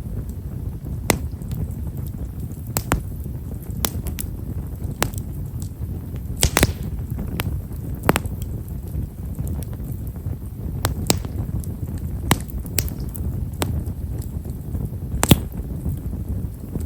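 Campfire of Japanese stewartia (himeshara) firewood burning with a low steady rumble of flame and fine, small crackles, sharp pops scattered irregularly about once a second, the loudest about six and a half seconds and fifteen seconds in.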